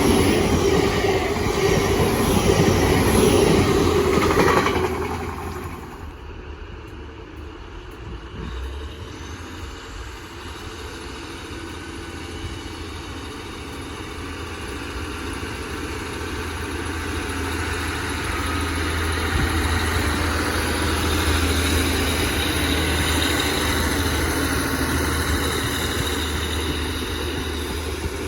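Passing trains. A loud passing train dies away about five seconds in, then another train gradually grows louder as it approaches and passes with a steady low engine hum.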